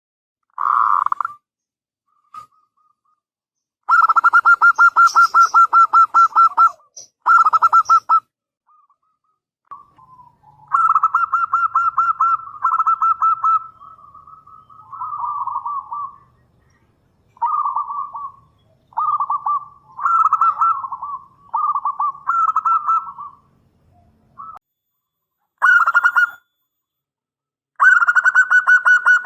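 Local zebra dove (perkutut) calling loudly: repeated phrases of quick, rolling coo notes at one steady pitch. Each phrase lasts one to three seconds, with short pauses between them.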